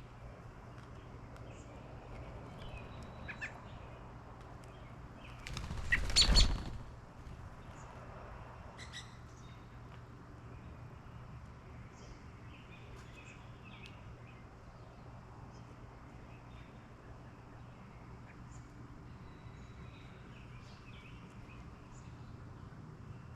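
A bird's wings flapping loudly close by for about a second, some six seconds in, as it takes off from or lands at a feeder. Scattered short, faint bird chirps sound throughout.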